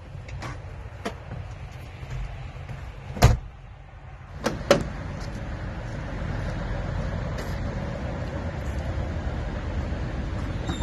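Two sharp knocks about a second and a half apart, then a steady low rumble.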